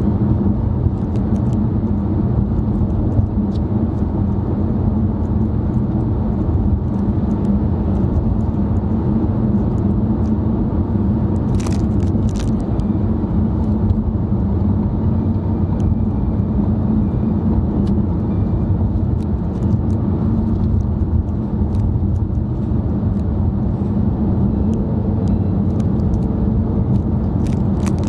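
Steady road and engine noise inside a moving car's cabin, a constant low rumble with a few faint ticks about twelve seconds in.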